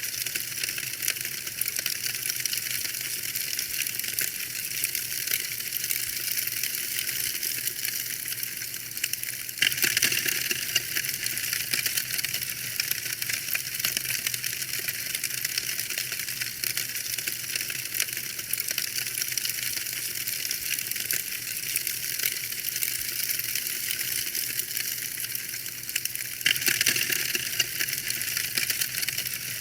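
Wood fire crackling in a fireplace: a dense, steady run of small pops and snaps over a soft hiss, briefly louder about ten seconds in and again near the end.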